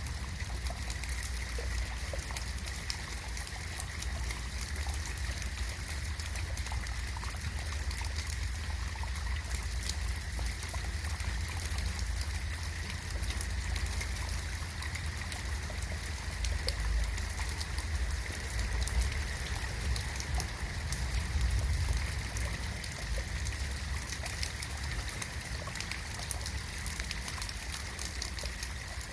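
Steady rain falling, a dense fine patter of drops over a low, steady rumble.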